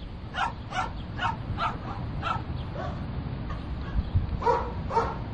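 A dog barking: a quick run of short barks, about two or three a second, then a pause and two more barks near the end.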